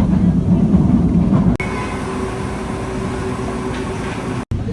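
LRT Line 1 light-rail train running on its track: a steady low rumble. About a second and a half in, the sound changes abruptly to a smoother run with a steady whine. The sound drops out for a moment near the end.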